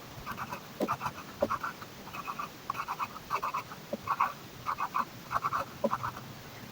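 A pen scratching across paper in quick clusters of short drawing strokes, several a second.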